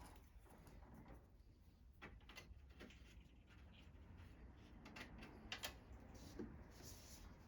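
Near silence with a few faint, scattered clicks and a soft knock.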